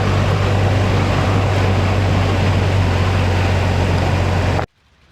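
Motorcycle engine running at a steady speed under strong wind rush, heard while riding. It cuts off suddenly near the end.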